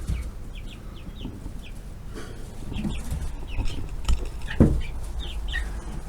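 Young chickens peeping inside a coop: many short, high chirps that drop in pitch, overlapping at random, with a few dull bumps.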